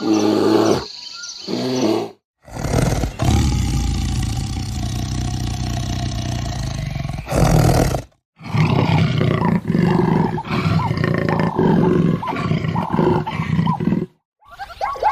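A string of farm animal calls cut together, with abrupt silent breaks between the clips. One long, low, drawn-out call is followed by a run of short calls repeated about once or twice a second.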